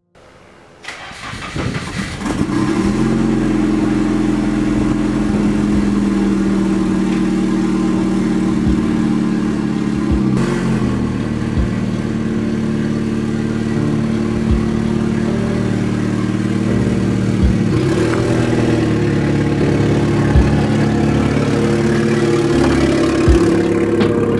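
A car engine starting about a second in, then running steadily with a deep, even tone.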